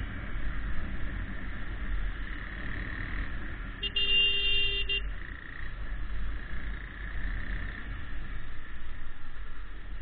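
Riding noise from a KTM RC 390 motorcycle on the move: a steady low rumble of wind and road. About four seconds in, a vehicle horn sounds once for about a second.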